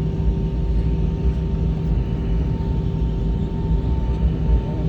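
Cabin noise of an Airbus A320 with IAE V2500 engines taxiing: a steady low rumble with two constant hum tones on top, unchanging throughout.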